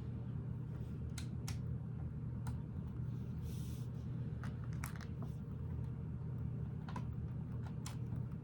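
Small plastic Lego pieces being handled and clicked together: scattered sharp clicks and a short rustle, over a steady low hum.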